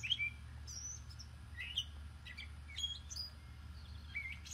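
Small birds chirping: short, high calls scattered irregularly through, over a steady low hum.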